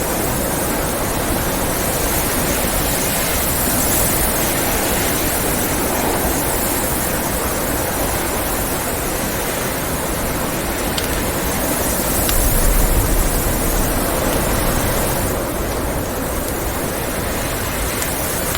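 Steady rushing blizzard wind that swells in a gust about two-thirds of the way through, with a few sharp crackles from a wood fire.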